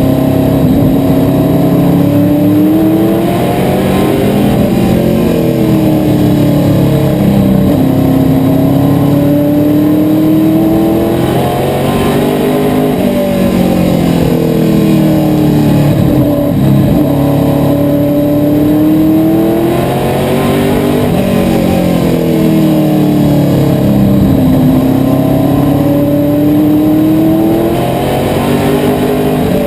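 Asphalt modified race car engine running at racing speed, its pitch rising under acceleration and dropping back as it lifts, over and over about every four seconds.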